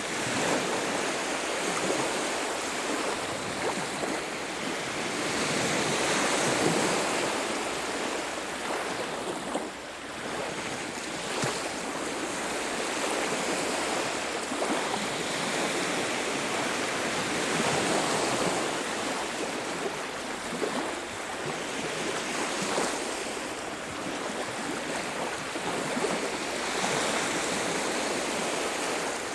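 Ocean surf breaking on a beach: a steady rush of waves that swells and eases every few seconds.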